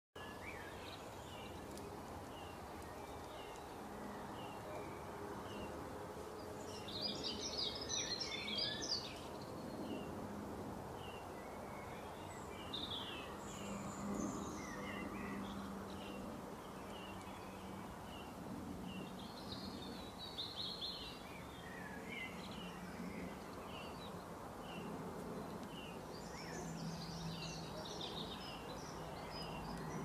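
Wild songbirds calling: a steady run of short chirps, with three bursts of quicker, higher song, over a steady low background hum.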